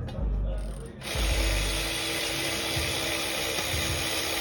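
Power ratchet running steadily from about a second in, spinning out a bolt during an engine teardown, after a few low knocks.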